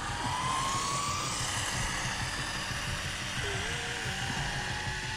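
Arrma Typhon RC car's electric motor whining as it drives, the whine rising slowly in pitch, over a steady hiss.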